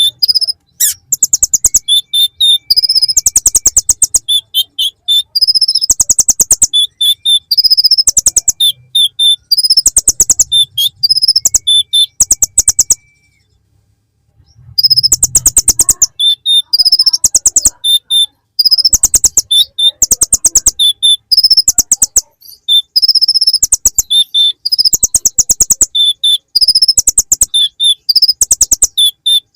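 Kolibri ninja (konin) sunbird singing a song packed with mimicked ciblek (bar-winged prinia) phrases: fast, rattling trills alternating with high, thin notes, repeated over and over in a steady cycle. The song breaks off briefly about halfway through, then carries on.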